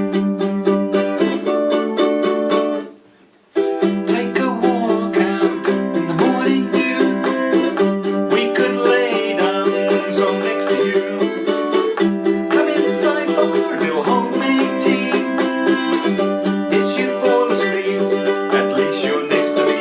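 Ukulele played in an instrumental break, strummed and picked chords. The playing stops briefly about three seconds in, then starts again.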